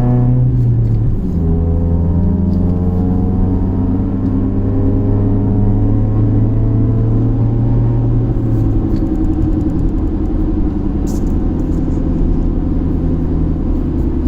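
Jeep Compass 2.4-litre four-cylinder with an aftermarket header and Magnaflow catback exhaust, heard from inside the cabin while accelerating through the gears of its manual gearbox. The engine note drops at an upshift about a second in, climbs as it pulls, drops at another shift near nine seconds, then settles into a steady drone at cruise.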